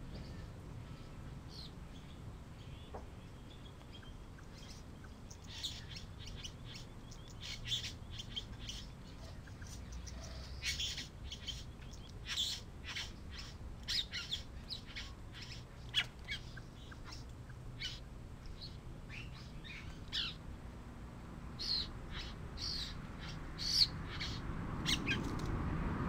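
Birds chirping: short, high calls in quick runs, starting about five seconds in and going on until near the end.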